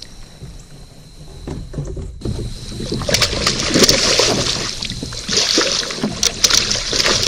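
Water splashing and sloshing around a kayak, growing louder about two seconds in, with scattered knocks against the hull.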